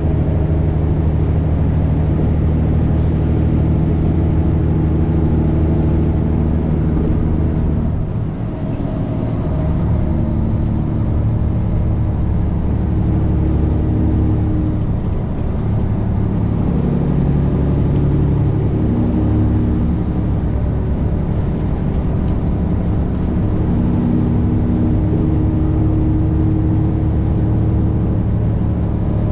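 Detroit Diesel 12.7 engine of a Freightliner Classic XL semi truck running at highway speed, heard from inside the cab as a steady low drone with road noise. The engine note drops briefly about eight seconds in, and its pitch shifts a few more times after that.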